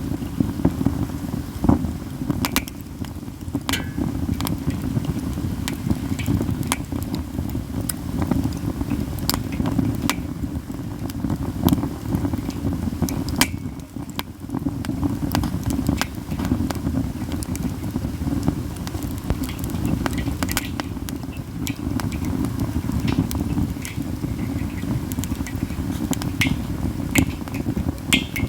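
Katsura wood campfire crackling steadily, with frequent sharp, irregular pops and snaps over a steady low rumble of the fire.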